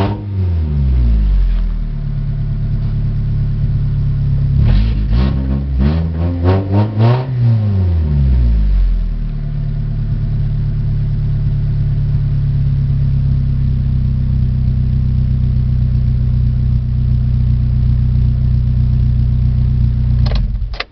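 Mitsubishi 4G93 1.8-litre inline-four engine blipped by the throttle: it falls back to idle at the start, revs up several times about five seconds in, then settles and idles steadily until the sound cuts off suddenly at the end.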